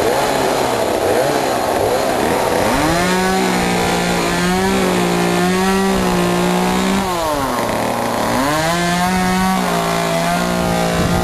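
Chainsaw running loud, its pitch wavering for the first couple of seconds, then held at steady high revs. It drops off about seven seconds in and revs back up a second later.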